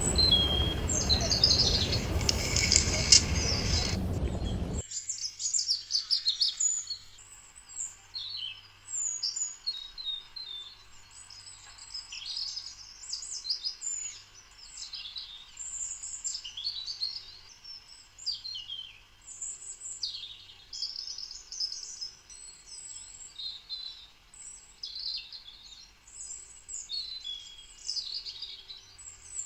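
Small songbirds chirping and twittering in quick, high, short notes. For the first few seconds a loud, even rushing noise lies under them, then it cuts off abruptly and the birdsong carries on alone.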